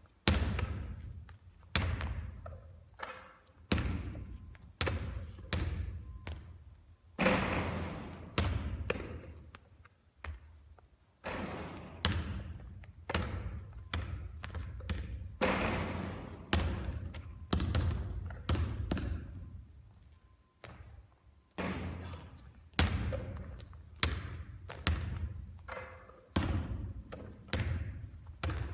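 Basketballs bouncing on a court floor during three-point shooting practice: a thud about every second, with a few louder hits that ring on longer.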